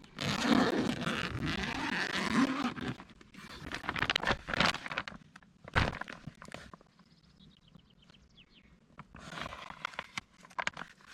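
Camping gear being handled inside a car: bursts of rustling with scattered knocks and clicks, then a quiet spell with a faint run of small ticks, then more rustling near the end.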